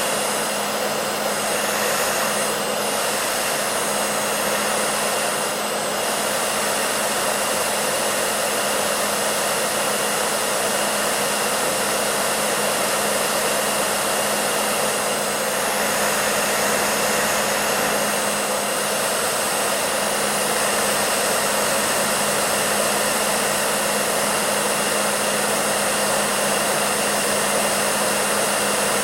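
Hair dryer running steadily: an even rush of blown air with a low motor hum underneath.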